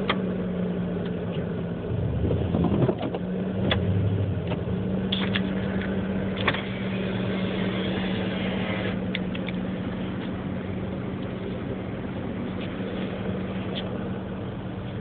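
An engine running steadily with a constant low hum, with a few sharp clicks and knocks and a brief rushing noise partway through.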